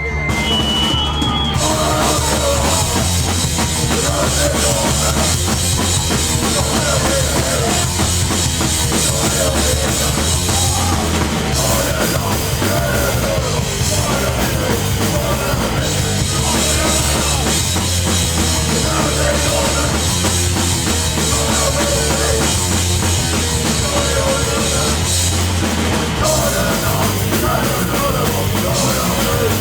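Hardcore punk band playing live at full volume: pounding drum kit, distorted guitars and bass. A high whistling feedback tone hangs over the first second or so.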